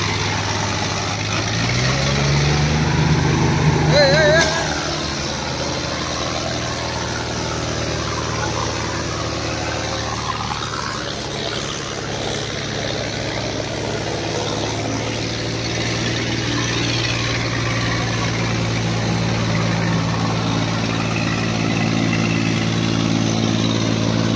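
Diesel tractor engines running hard under load, revving up about two seconds in and then holding a steady drone. A short warbling tone sounds about four seconds in.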